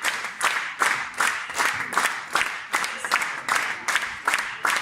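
Audience clapping in unison to a steady beat, about two and a half claps a second, over general crowd noise.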